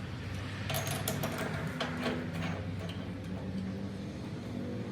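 Steady low machine hum with a run of light clicks and taps in the first half.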